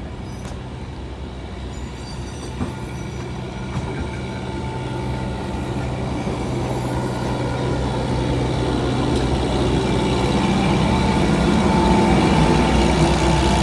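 An Alishan Forest Railway train running and growing steadily louder as it approaches, with a steady low engine hum under the rolling noise and a faint thin tone in the second half.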